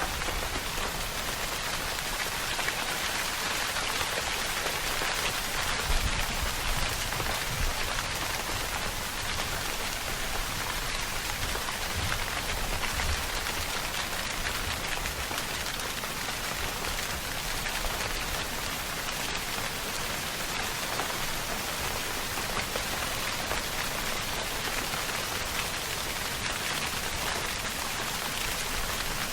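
Steady rainfall pattering on a surface, an even hiss of many drops with slight swells in loudness and no thunder.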